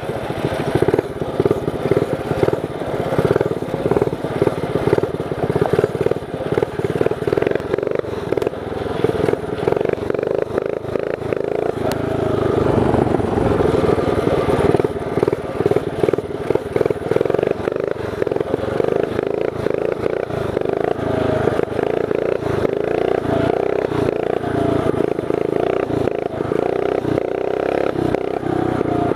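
Mini bike's 212cc clone engine, governor removed, with a Mikuni VM22 carburettor and a throaty aftermarket exhaust, running hard under load as it is ridden. Its pitch rises and falls with the throttle, and it gets louder about twelve seconds in.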